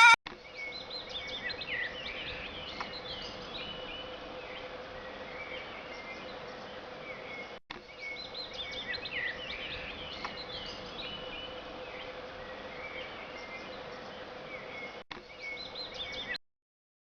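Birds chirping over a faint steady hum and hiss, an outdoor ambience track, broken by two brief dropouts and cut off shortly before the end.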